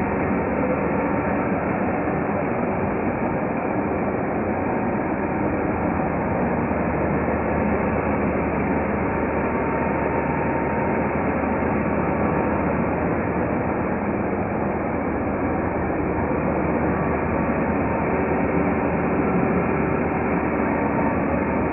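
Hoover Turbopower 2 U2464 upright vacuum cleaner running steadily, its motor giving a constant noise.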